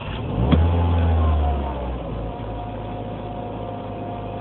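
2007 Mini Cooper S engine catching on a cold start with half throttle held, running loud and fast for about a second and a half. It then drops back to a steady fast idle. This is a re-start after a stall, part of a recurring cold-start stall and stumble.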